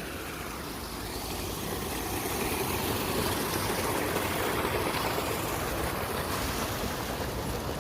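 Steady rushing of water pouring down a small artificial stone waterfall, swelling a little in the middle.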